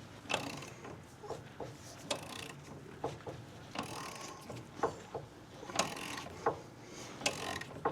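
Metal tools and press adapters being handled: irregular clinks, knocks and short scrapes, as for a smaller ball joint press adapter being sought and fitted.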